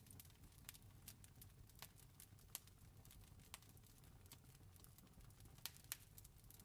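Campfire crackling faintly: irregular wood pops and snaps over a low rumble, with a few louder pops, one about two and a half seconds in and two close together near the end.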